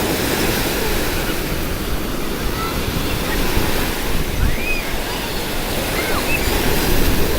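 Sea surf washing onto the shore in a steady rush, swelling a little now and then, with a few faint high chirps over it.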